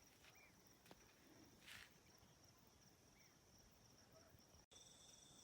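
Near silence with faint, steady high-pitched chirring of crickets. The chirring changes abruptly to a different cricket chorus near the end.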